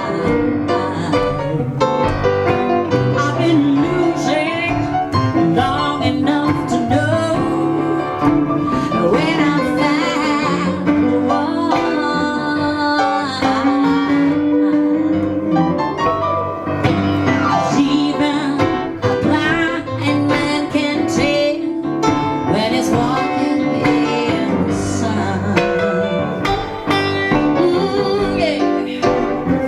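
Jazz-blues song played on piano and guitar, with a woman's singing voice.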